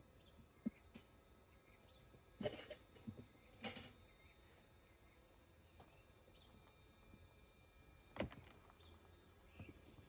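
Mostly quiet, with a few short knocks and handling noises scattered through, and faint bird chirps in the background.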